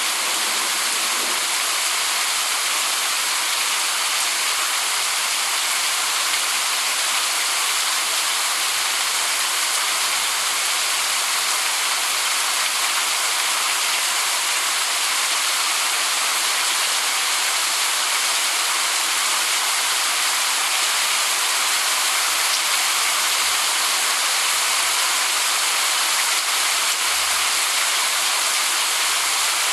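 Steady heavy rain falling, a continuous even hiss with no single drops standing out.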